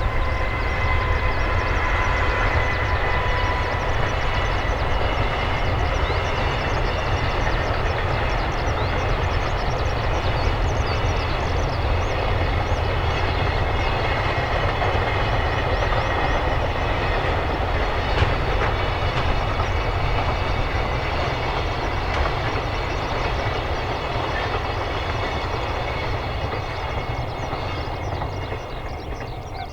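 A train passing close by: steady rumble and rush of wheels on rails, with a faint steady whine in the first few seconds, slowly fading toward the end.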